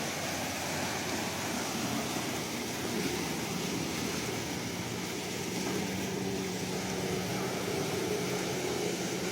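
Sea waves washing on the shore in a steady, continuous rush, with no single breaker standing out.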